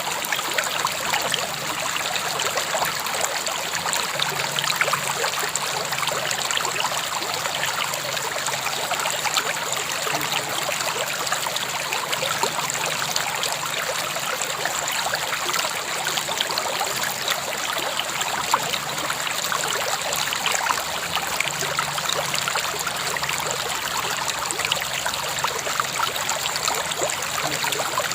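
A river flowing steadily: an even rush of water with many small splashes and trickles over stones.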